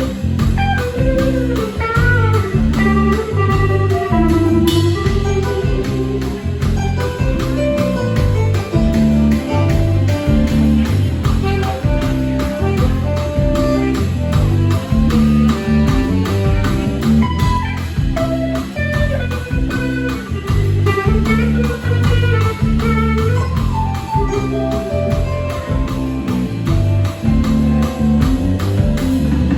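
Live band playing an instrumental blues-style passage: a guitar lead with bending notes over bass and drums, with no singing.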